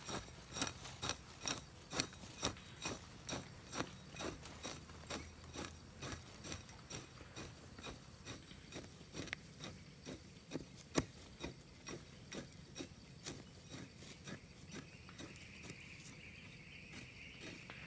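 A steady series of sharp knocks or clicks, about two to three a second, with one louder knock about two-thirds of the way through; a faint high buzz joins near the end.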